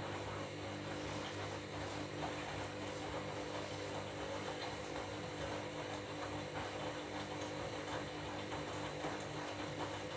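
Front-loading washing machine drum turning a load of bed linen during the wash: a steady motor hum with the swish of water and wet laundry.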